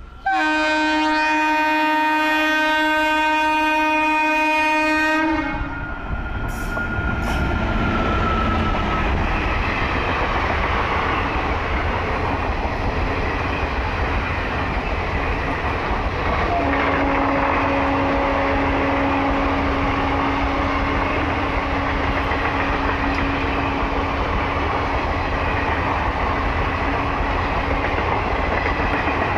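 WAP4 electric locomotive's air horn sounding one long blast of about five seconds, then the passenger train running past with a steady rumble and clatter of wheels on rail.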